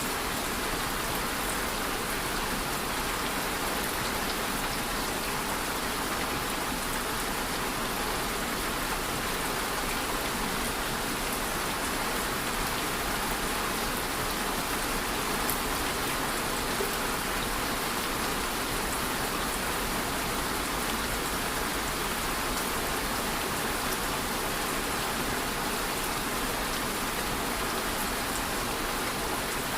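Steady rain falling, an even hiss of countless drops hitting a surface, with no thunder or change in strength.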